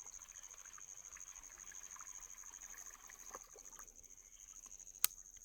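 Noisy baitcasting reel being cranked to retrieve an artificial lure, a fast even grinding that eases off about three seconds in. A single sharp click near the end.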